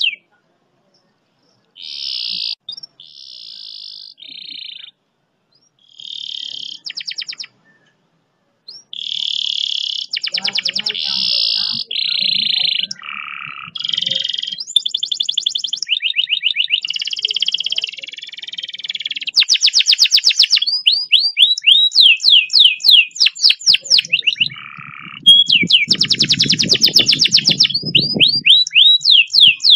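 Domestic canary singing a long song of fast rolls and trills, broken by short pauses in the first few seconds, then running almost without break into rapid, evenly repeated chirping notes from about twenty seconds in.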